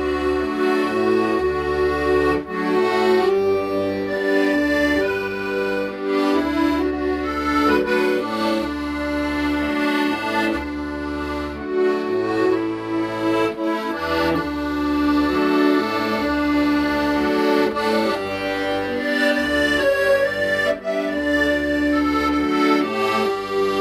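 Accordion playing a slow melody in long held notes over deep bass notes that change every second or two.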